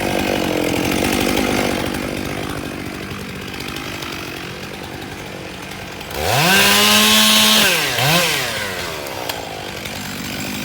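Two-stroke chainsaw revved to full throttle, the pitch rising quickly and held for about a second and a half before dropping back, then blipped once more briefly. A steadier engine drone runs underneath.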